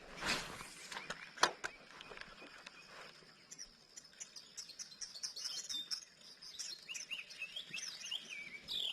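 Small birds chirping and twittering, many quick high calls that thicken in the second half, over a thin steady high tone. A couple of sharp knocks or splashes sound in the first second and a half.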